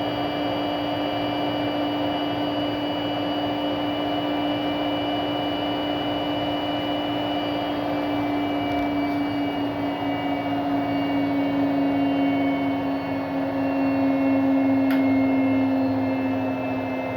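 Arctic washing machine running in service mode, its motor and drum giving a steady whine of several tones, a noise the owner takes to be abnormal. A single sharp click about fifteen seconds in.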